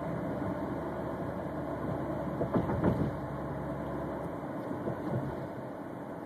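Cabin sound of a 2002 Chrysler Voyager under way, its 3.3-litre V6 running with road noise, a steady rumble. A few sharp knocks come about two and a half to three seconds in, and the deepest part of the rumble fades a little after about four and a half seconds.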